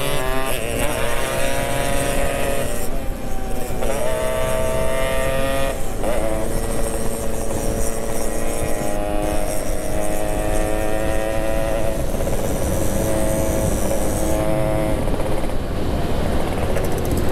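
Yamaha RX-King's two-stroke single-cylinder engine running under way, its pitch climbing as it pulls through the gears in the first six seconds, then holding a steady cruise.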